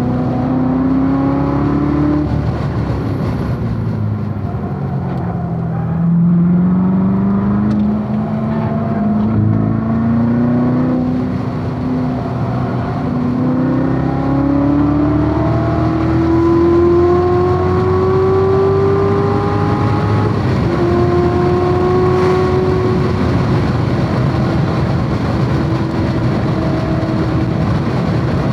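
Chevrolet Corvette C7 Z06's supercharged 6.2-litre LT4 V8 at racing speed. The engine's pitch drops for a few seconds, then climbs in long pulls broken by quick gear changes, and runs high and fairly steady near the end.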